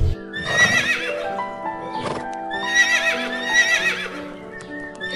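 Horse whinnying twice, each call a wavering neigh about a second long, over soft piano music.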